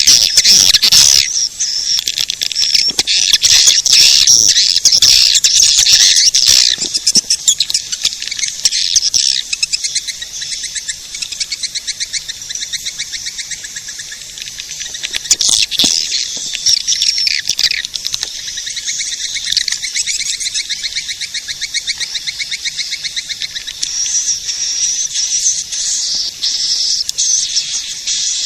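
Swiftlet calls played as a lure sound: dense, rapid high twittering and chittering from many birds at once. It is loudest in the first few seconds, eases into quicker, thinner chirping mid-way, and swells again near the end.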